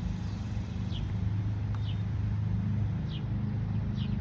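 Robot lawn mower's electric motor humming steadily at close range, just switched on. Several short, high, falling chirps, likely birds, sound over it.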